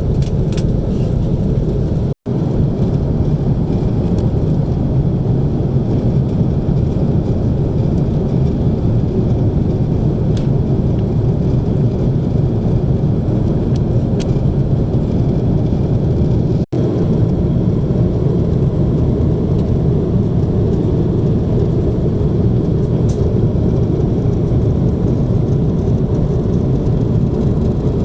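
Airbus A330-300 airliner cabin noise: a steady, loud low rumble of engines and airflow, broken twice by brief cuts to silence.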